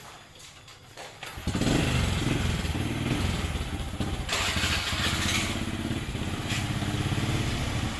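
A small engine starts about a second and a half in and keeps running with a fast, even pulse.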